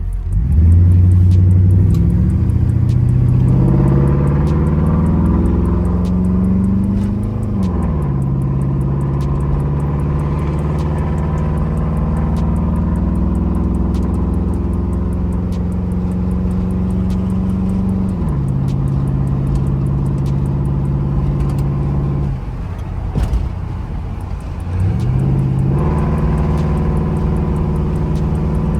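Car engine accelerating under load, its pitch climbing and then dropping sharply twice as it shifts up, with a short easing-off and pick-up again later on. It is a freshly overhauled engine that the driver says has a slight miss and hesitation and is not pulling as it should.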